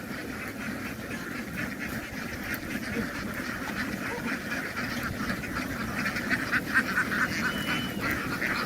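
A large flock of farm ducks quacking together in a dense, continuous chatter of overlapping calls, louder in the last few seconds.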